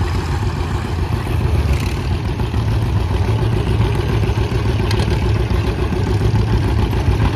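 John Deere 50 tractor's two-cylinder engine running steadily and loud, a dense low rumble with no change in pitch.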